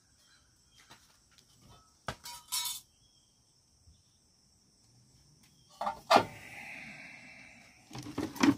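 Metal clinks and knocks of tools and brake parts being handled while a car's brake pads are removed: a couple of short ringing clinks about two seconds in, a louder knock near six seconds, then a brief scraping.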